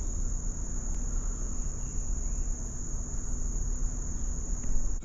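Insects trilling in one steady, unbroken high-pitched drone over a low, even rumble of background noise.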